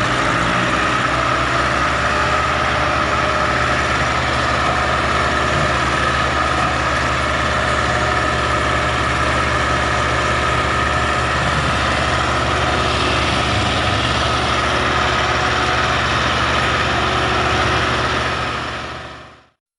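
Massey Ferguson tractor diesel engine running steadily, fading out near the end.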